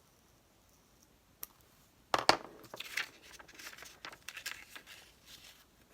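Paper rustling and crinkling as a paper cutout is handled and repositioned: a single click, then a run of scratchy bursts starting about two seconds in.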